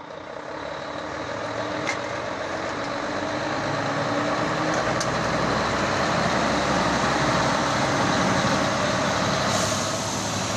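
A Mercedes-Benz Actros truck's engine running as the truck comes closer, growing louder over the first few seconds and then holding steady.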